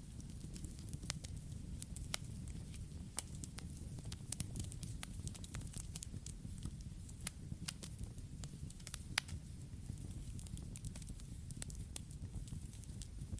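Campfire burning: a steady low rumble of flames with frequent irregular crackles and sharp pops of burning wood, one pop louder than the rest about nine seconds in.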